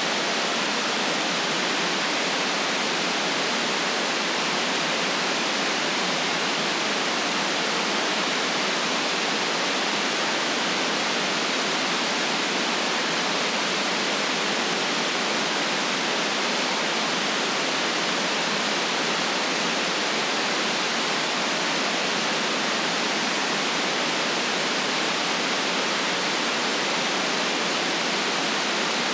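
Synthetic white noise played as a relaxation track: a steady, unchanging hiss, cut off below about 150 Hz and above about 9 kHz.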